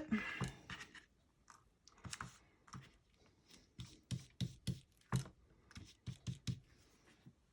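Faint, irregular light tapping and scuffing as the edges of small die-cut paper pieces are dabbed with ink from an ink pad to soften them, in scattered clusters with short pauses between.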